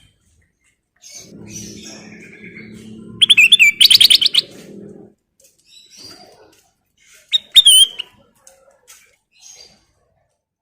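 Kutilang emas, a bulbul, singing in short bursts. A fast run of loud chirps comes about three seconds in, and a loud whistled call with a falling note comes near eight seconds, with softer chirps between.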